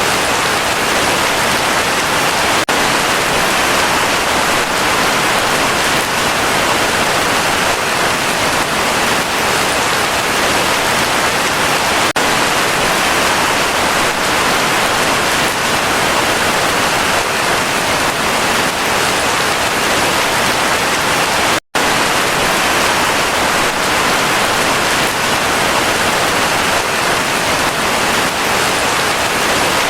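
Heavy rain falling steadily, a dense even hiss, broken by a sudden split-second dropout to silence about two-thirds of the way through.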